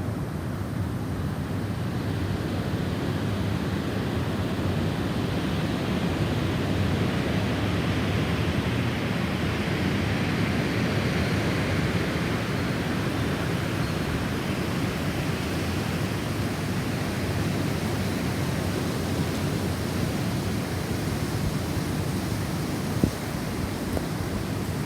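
Snowstorm wind blowing, a steady rushing with a gust swelling about halfway through.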